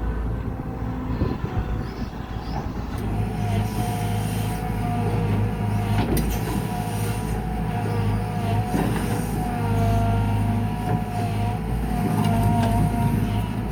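Kobelco SK120 excavator running steadily while digging, its diesel engine humming low under a high whine that wavers in pitch, with a few sharp knocks.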